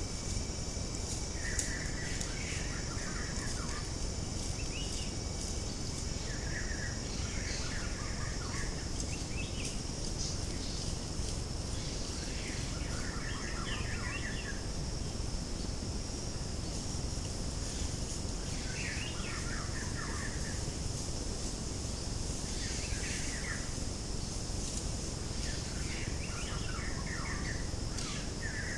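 Wild birds calling in short clusters of chirps every few seconds, over a steady high hiss.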